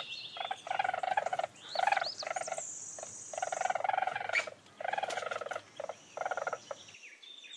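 Weasel calling: a run of short pitched calls in an uneven rhythm, some clipped and some drawn out to about half a second, stopping about seven seconds in.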